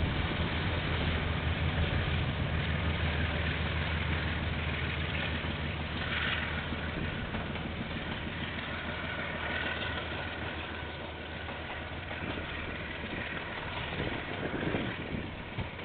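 Two diesel locomotives at the head of a freight train pass by, their engines a steady low drone that weakens after about seven seconds. Container wagons then roll past with a continuous rumble and a few knocks near the end.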